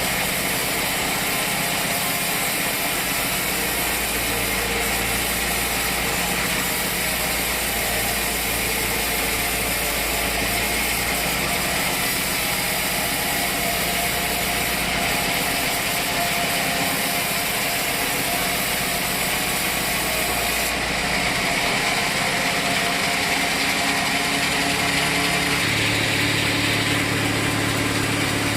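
Sawmill machinery running: a steady engine drone under a hissing saw noise, shifting a little in tone in the last few seconds.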